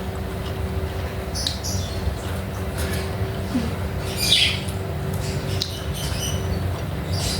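Mukbang eating sounds: a person chewing food with a few short wet mouth smacks, over a steady low hum.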